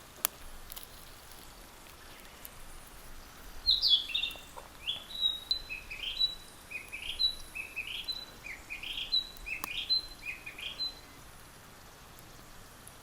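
A songbird sings a run of about eight quick, repeated rising phrases lasting some seven seconds, over a faint steady background hiss. A single sharp click comes just before the song, near the start.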